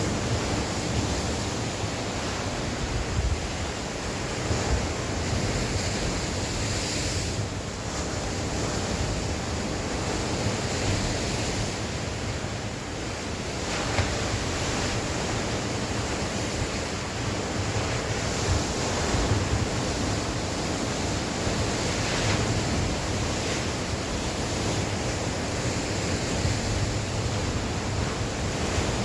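Sea waves breaking and washing on the shore in a steady wash of surf, with wind buffeting the microphone.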